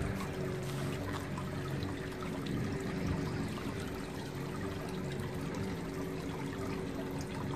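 Water pouring and trickling steadily, with a faint low steady hum beneath it.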